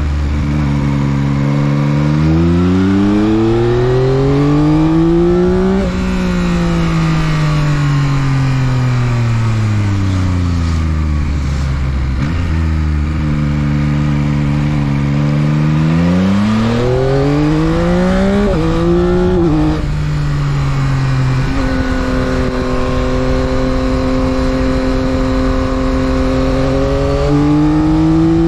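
2022 Yamaha XSR900's stock-exhaust engine under way, with wind rush on the microphone. The revs climb for about six seconds, then fall away as the throttle closes; they climb again with a few quick gear changes, hold steady at a cruise, and pick up again near the end.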